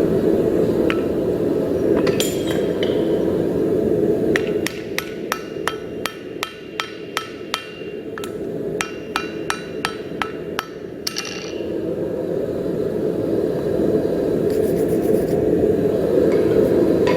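Hammer blows on steel at the anvil in a forge: a couple of single strikes, then a quick run of ringing blows at about three a second lasting some six seconds, over a steady rushing noise.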